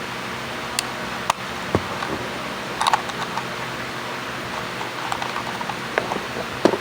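Scattered light clicks and taps of plastic parts being handled while a phone holder is assembled, over a steady background hum.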